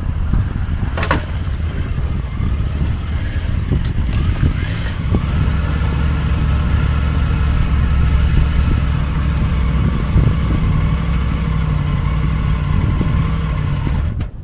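Triumph Tiger 900 GT motorcycle's three-cylinder engine running under way, holding a steady pitch from about five seconds in, with a few knocks early on, and cutting off suddenly near the end.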